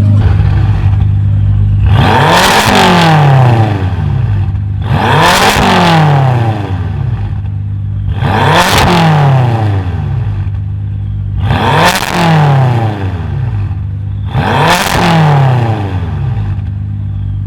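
A tuned car's engine idling, then revved five times about every three seconds; each rev rises quickly and falls back to idle.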